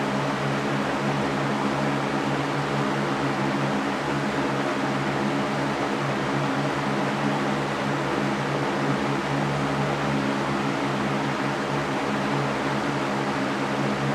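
Electric fan running steadily: an even rush of moving air with a low steady motor hum under it.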